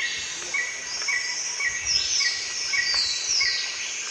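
Tropical forest ambience: a steady high drone of insects with birds calling. One bird repeats a short note about twice a second, and there are several falling, whistled calls higher up.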